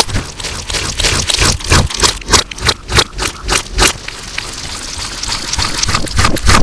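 Slime being squished and pressed, giving quick, distorted wet squelches about three a second, which turn into a steadier smearing sound about two-thirds through before the squelches return near the end.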